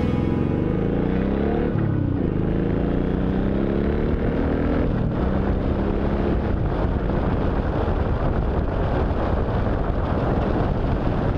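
Motorcycle engine accelerating through the gears: its pitch climbs, drops back at a shift about two seconds in, climbs again and drops at another shift about five seconds in. After that wind rush on the microphone covers the engine.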